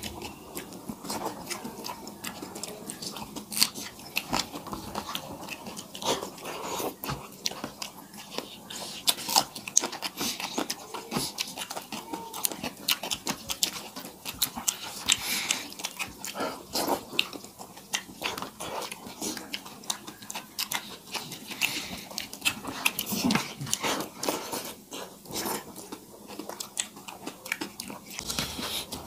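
Close-up eating sounds of two people eating rice and curry by hand: irregular wet chewing and lip-smacking, with rice being squished and mixed by hand on steel plates.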